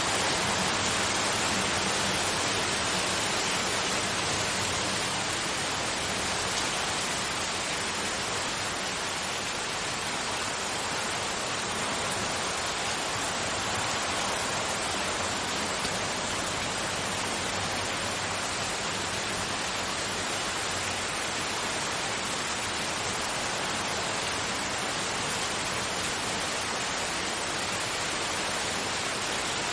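Steady hiss of continuous broadband noise, even from low to high pitches, with no change in level.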